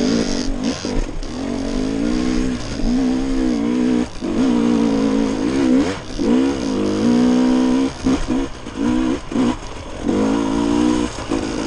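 Dirt bike engine running under throttle, its revs rising and falling with brief drops every second or so as the throttle is rolled off and back on.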